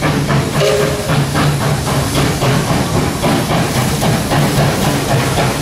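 Steam locomotive coming in, hissing steam over a steady low hum.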